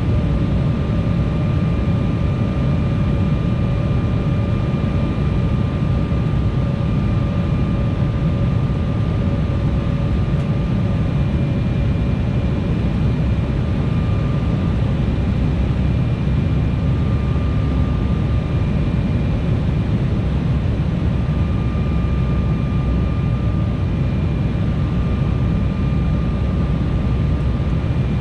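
Steady in-flight cabin noise of an Embraer E175 jet: a deep rush of air and engine noise from its General Electric CF34 turbofans, with a faint steady engine whine on top.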